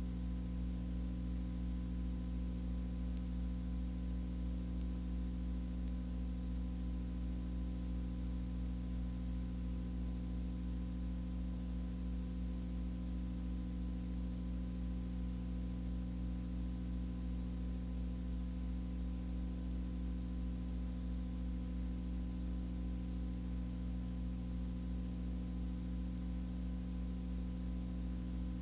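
A steady low hum made of several constant tones over a hiss, unchanging throughout.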